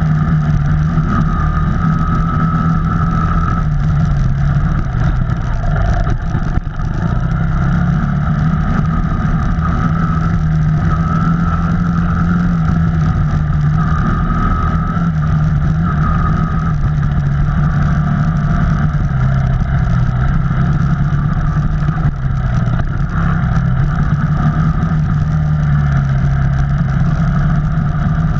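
Off-road vehicle engine running steadily under way, its pitch rising and falling a little as the throttle changes.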